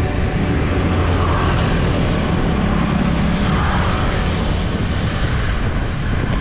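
Steady rushing road noise: passing traffic and wind.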